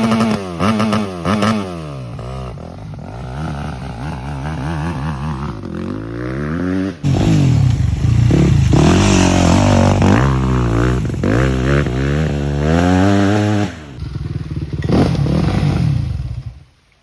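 2007 Yamaha YZ250F's single-cylinder four-stroke engine revving up and down over and over, with sudden jumps in loudness about seven and fourteen seconds in; the stretch between them is the loudest.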